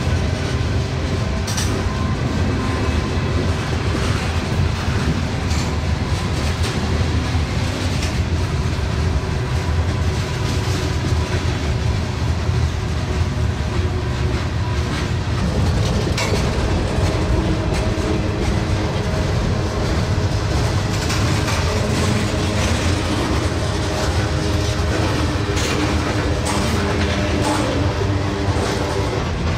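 Freight train cars rolling past on the rails: a steady, loud wheel-on-rail noise with scattered clicks as the wheels cross the rail joints.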